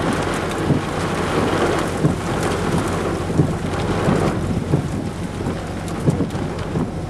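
Heavy thunderstorm rain with a steady low rumble, and many sharp taps of raindrops striking close to the microphone.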